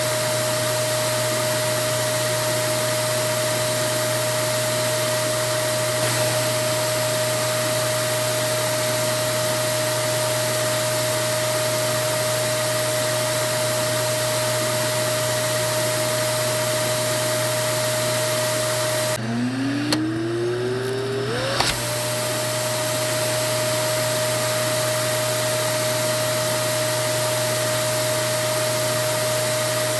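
Vacuum cleaner motor running steadily with a constant whine over a rushing noise. About 19 seconds in the sound drops sharply and a motor tone climbs in pitch for about two seconds, with a couple of clicks. It then returns to full steady running.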